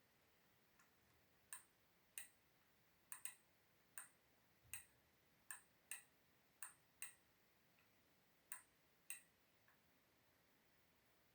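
About a dozen sharp, separate clicks at uneven intervals, roughly half a second to a second and a half apart, over a quiet background.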